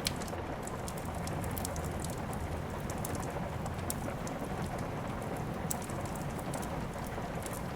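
Steady rain, with many small sharp crackles and ticks scattered through it, as from a wood fire burning in a fireplace.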